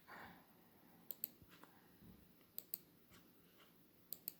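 Three pairs of quick, sharp clicks, about a second and a half apart, over near-quiet room tone.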